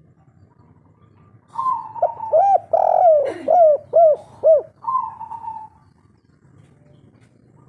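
Spotted dove (tekukur) singing one phrase of its three-part 'kuk 3' coo: a held note, a quick run of about six lower notes, then a long held note at the end. A faint low hum runs underneath.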